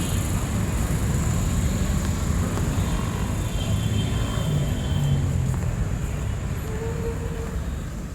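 City street ambience: a steady low rumble of traffic, easing down near the end.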